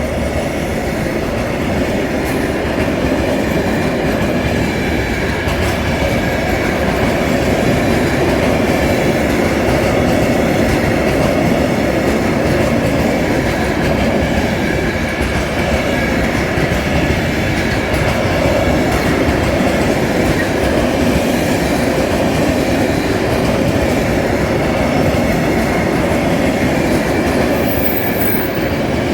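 Freight train hauled by Class 66 diesel locomotive 66114 passing: a steady rumble of wagon wheels on the rails with a rhythmic clickety-clack and faint wheel squeal.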